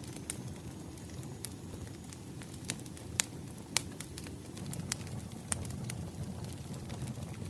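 Wood fire burning: a steady low rumble with irregular sharp crackles and pops, two of them louder about three and four seconds in.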